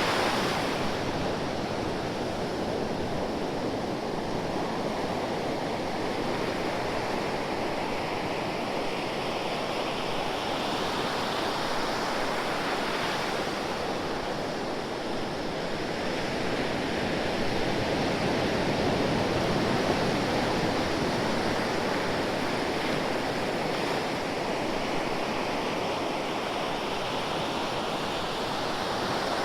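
Ocean waves washing ashore continuously, the surf swelling and easing every several seconds.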